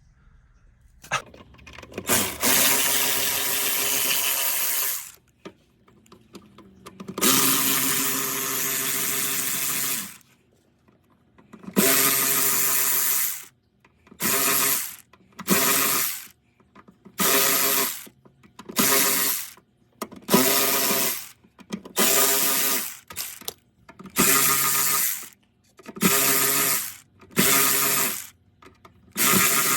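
Battery-powered hand tool's motor whirring in bursts, likely backing out interior bolts: two runs of about three seconds, then about a dozen short runs of about a second each.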